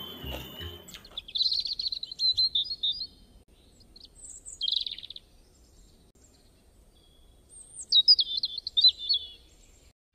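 A small songbird singing quick, high chirping and trilling phrases in three bouts: the first about a second in, a short one around four to five seconds, and the last near the end.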